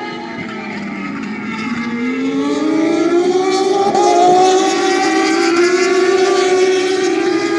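Several Turismo Carretera race car engines at high revs, their pitch climbing and growing louder from about a second and a half in as they accelerate, then holding steady.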